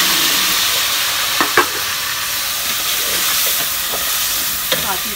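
Chopped tomatoes and spices sizzling loudly in hot oil in a pot, the sizzle easing slightly as they cook. A metal spoon stirring them clinks against the pot a couple of times about a second and a half in, and again near the end.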